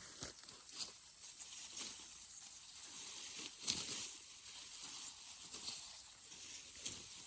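Grass or brush rustling and swishing in several irregular strokes, the loudest a little under four seconds in, over a steady high hiss.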